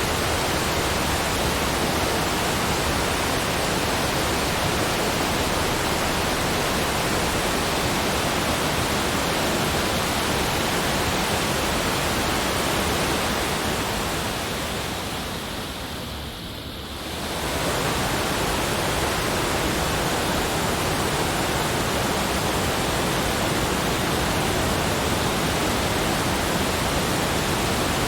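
Steady, even rushing noise like a waterfall or pink noise, spread evenly from deep to high pitch. About 14 seconds in it fades down and thins, then swells back to full about 17 seconds in, like the seam of a looped recording.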